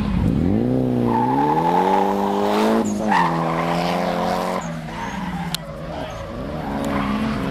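A drift car's engine revving hard, its pitch climbing for about three seconds, dipping sharply, then holding high before backing off to lower, wavering revs about halfway through. Tyres skid as the car slides.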